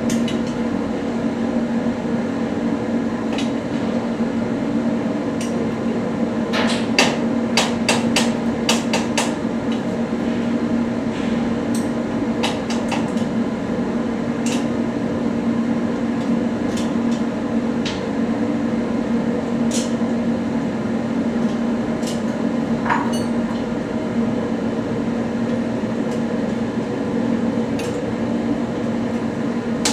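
Irregular sharp metallic clicks and taps of tools on metal parts, over a steady machine hum.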